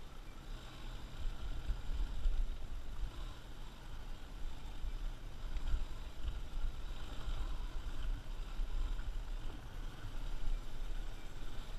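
Wind buffeting the microphone: a low, gusty rumble that rises and falls unevenly.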